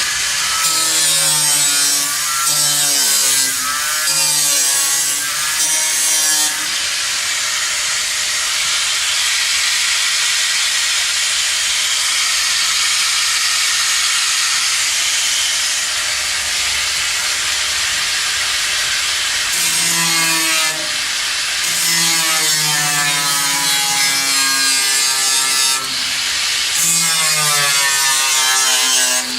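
Electric power saw cutting wood, its motor pitch wavering up and down under load. The middle stretch is a steadier, hissing cut.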